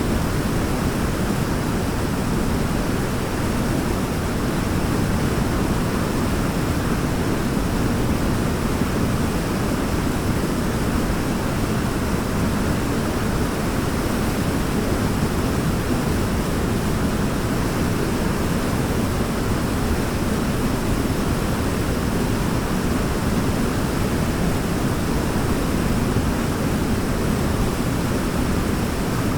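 Waterfall: water pouring steadily, a dense, unbroken rush with a deep low rumble.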